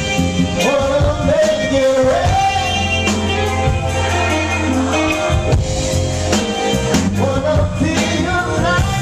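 A live R&B band plays with a voice singing the melody over a steady beat and bass.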